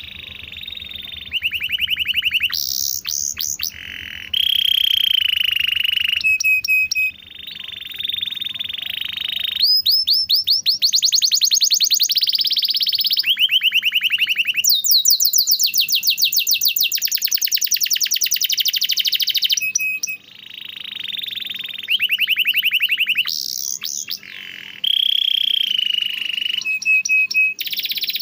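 Domestic canary singing a long continuous song of rapid trills and rolls, switching to a new phrase every second or two.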